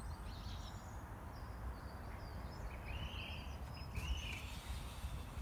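Birds chirping now and then, short high calls heard several times, over a steady low rumble.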